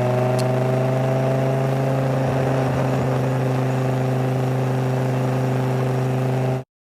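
BMW E60 M5's V10 engine running through an aftermarket exhaust, holding a steady speed, then cutting off abruptly near the end.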